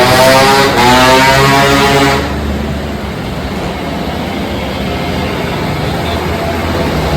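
Small moped engine revving, its pitch rising and falling. About two seconds in it cuts off suddenly to a quieter, steady low engine rumble.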